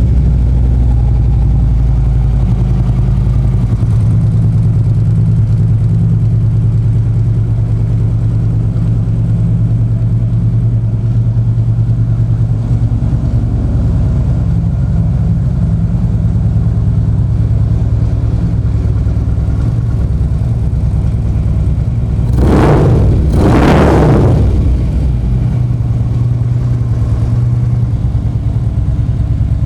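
2012 Harley-Davidson Street Glide's Twin Cam 103 V-twin idling through aftermarket slip-on mufflers, shortly after being started. The throttle is blipped once about 22 seconds in, the revs rising and falling back to a steady idle.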